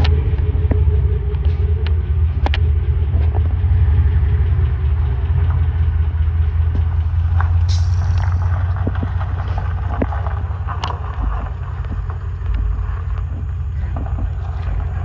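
2018 Ford F-150 engine running steadily through a freshly straight-piped exhaust, its catalytic converters still in place: a loud, deep exhaust rumble with a few light clicks over it.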